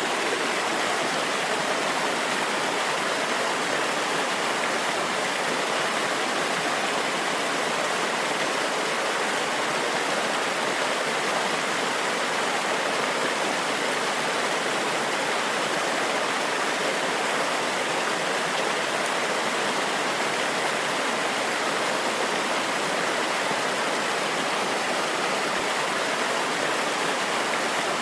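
Backyard waterfall water splashing and cascading over rocks, a steady even rush.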